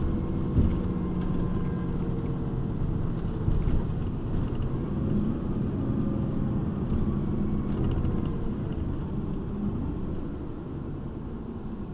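City bus engine and road noise heard from inside the cabin while the bus drives, the engine note rising and falling. There is a single knock about half a second in.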